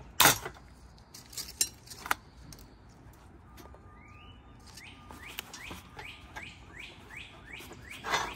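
A bird chirps over and over, short down-slurred chirps about two or three a second. A few sharp clinks and knocks come from metal grill hardware being handled, the loudest just after the start and near the end.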